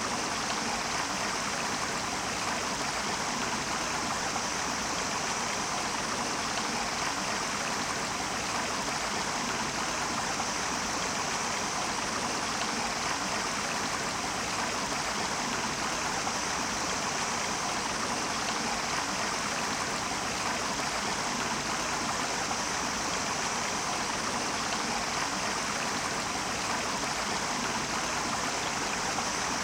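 Stream water running and babbling over rocks, a steady rush with no pauses.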